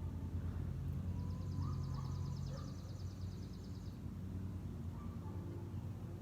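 A small songbird's trill: a rapid, even series of high notes lasting about three seconds, starting about a second in, over a steady low hum.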